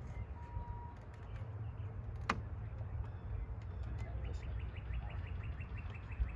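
A bird sings a rapid trill of short, even, high notes, about ten a second and falling slightly in pitch, starting about four seconds in. A single sharp click comes a little after two seconds, over a steady low rumble.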